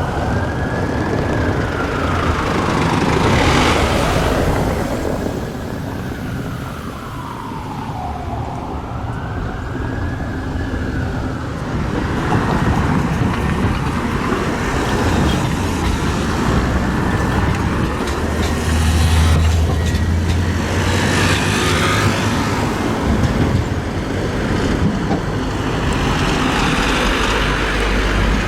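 Emergency-vehicle siren in a slow wail, rising and falling about once every six seconds, over street traffic. About halfway through the siren drops away, leaving traffic and a heavy vehicle's engine passing close by.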